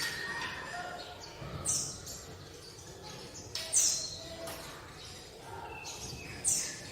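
A sunbird singing: three loud, sharp, high notes, each sliding down in pitch, spaced about two to three seconds apart, with softer twittering between them.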